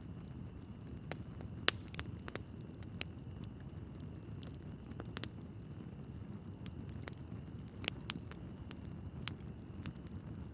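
Wood logs burning in a fireplace: irregular sharp crackles and pops over a steady low rush of flame, with the loudest pops about two seconds in and again about eight seconds in.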